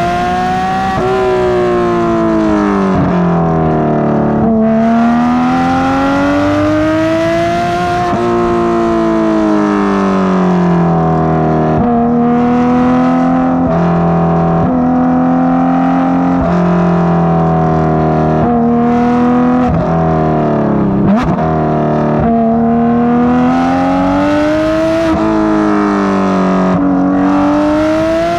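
Porsche 991.2 GT3 RS naturally aspirated 4.0-litre flat-six, breathing through Dundon street headers and exhaust, revving hard and climbing in pitch through the gears. The pitch drops sharply at each shift, and the engine eases off and pulls again several times.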